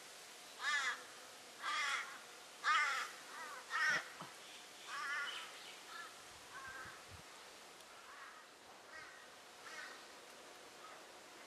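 A bird calling in a series of about a dozen short, wavering calls, roughly one a second. The first four are loudest and the rest grow fainter.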